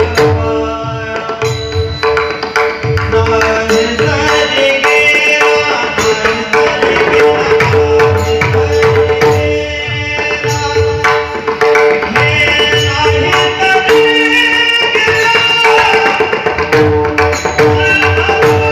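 Pakhawaj drumming with deep bass strokes over a steady held drone note, with a melody line above, in Indian devotional music.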